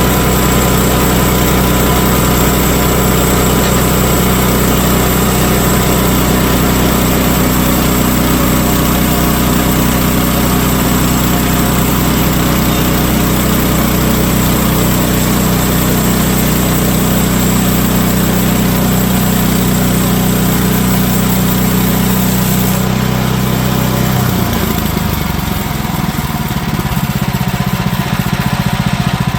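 Woodland Mills HM130Max portable band sawmill running steadily while it cuts through a Douglas fir log. The engine note changes abruptly about 24 seconds in.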